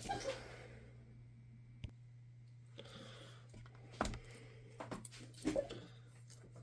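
Scattered light clicks and knocks, a few seconds apart, of a laptop's parts being handled during disassembly, over a steady low hum.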